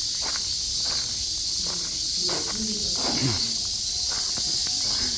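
Chorus of cicadas droning steadily in a dense, high-pitched shrill wall of sound.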